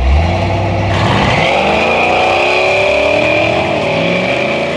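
Two drag-racing street cars, a Ford Mustang notchback and a Chevrolet Camaro Z28, launching and accelerating hard down the strip. Their engine notes climb, then drop back and climb again through gear changes, with a steady high whine over them.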